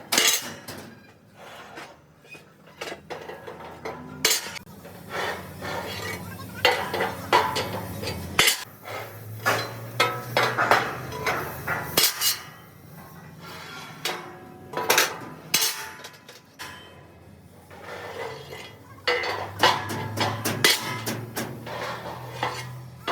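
Irregular metallic clanks and knocks of steel parts being struck and handled during trailer body fabrication, over a low steady hum.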